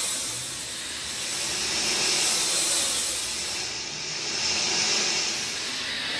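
Steady rain hissing, swelling and easing in slow waves every two or three seconds.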